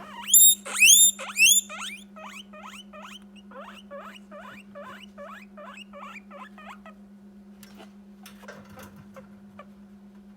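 Guinea pig wheeking to beg for a treat: three loud, long squeals that rise and fall, then a run of shorter, fainter calls at about two a second that stop about seven seconds in. A brief rustle follows near the end.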